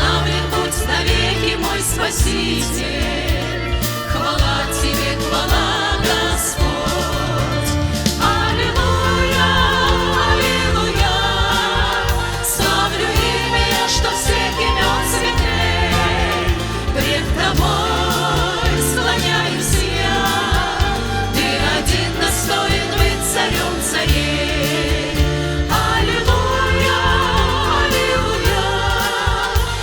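A vocal group sings a Russian-language worship song over a live band, with drums keeping a steady beat.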